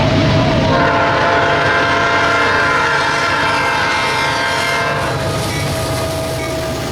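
Freight train running past with wheels clacking over the rails, and a diesel locomotive's air horn sounding one long blast from about a second in until about five seconds in.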